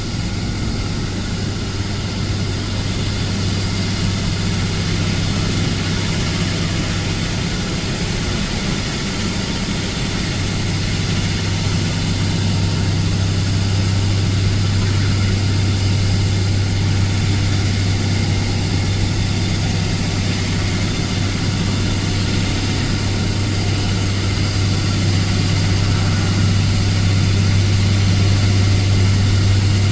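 An engine running with a steady low drone that grows gradually louder.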